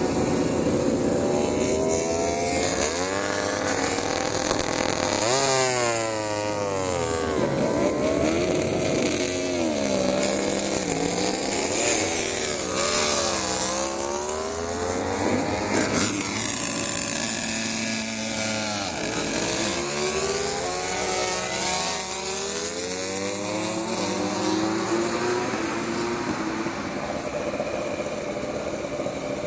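Several MotoGP racing motorcycles, 1000 cc four-cylinder four-strokes, revving and accelerating hard for practice starts. Overlapping engine notes rise and fall in pitch again and again.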